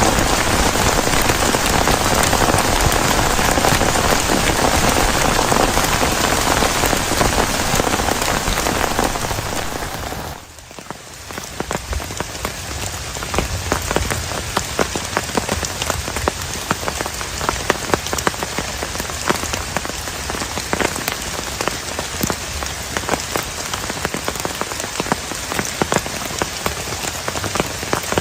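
Heavy rain falling steadily. About ten seconds in it drops away briefly, then comes back with many separate drops striking a surface over the hiss of the downpour.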